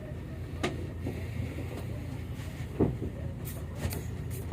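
Motor launch's engine running with a steady low rumble, and two sharp knocks, one under a second in and one near three seconds.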